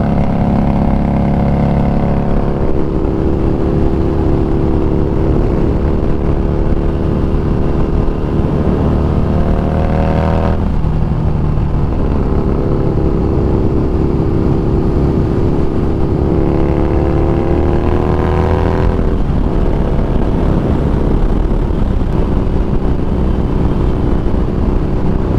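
Harley-Davidson Street Rod 750's V-twin engine running under way, its note climbing and then falling back about two, ten and nineteen seconds in.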